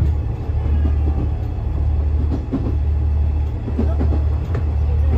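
Diesel railcar running, heard from inside the passenger car as a steady low drone with a light rattle of the car over it.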